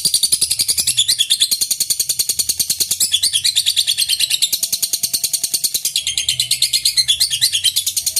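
Lovebird singing a long, unbroken ngekek: a rapid, high-pitched chattering trill of a dozen or so chirps a second, running without a pause.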